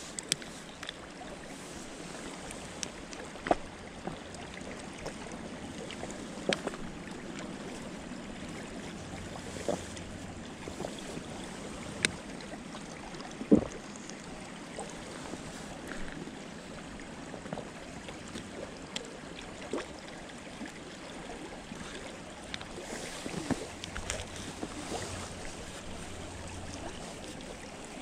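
Steady rushing outdoor noise in the woods, with scattered sharp snaps and clicks every few seconds, the loudest about halfway through.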